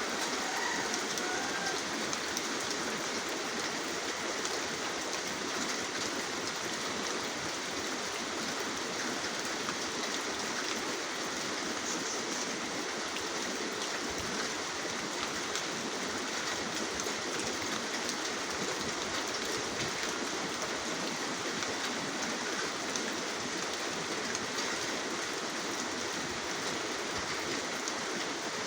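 Steady rain falling: an even hiss with many small drop ticks, unchanging in level.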